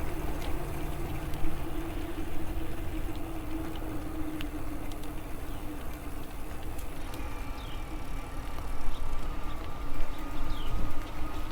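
Riding an electric bike: wind rumbling on the microphone and tyre noise, with a steady hum from the bike. In the second half a thin higher tone comes in, along with a few short falling chirps.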